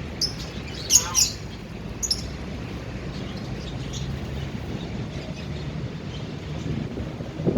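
Cockatiel giving short, sharp chirps, several in the first two seconds and fainter ones after, over a steady low background hum.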